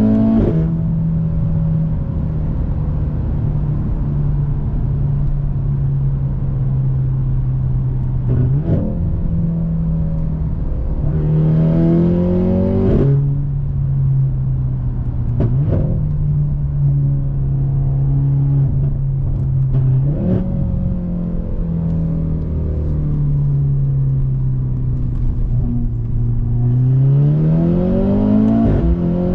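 Mercedes-AMG C43's turbocharged four-cylinder through an aftermarket Fi exhaust with a catless downpipe, cruising at a steady drone and twice accelerating with a rising pitch. At the gear changes the pitch drops, each time with a brief sharp crack.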